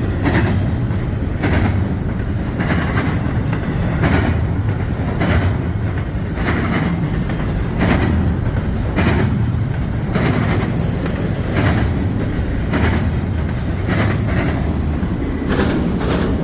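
Long freight train's cars rolling past at track speed: a steady low rumble of wheels on rail, with the sharp clack of wheelsets over a rail joint about once every second and a bit.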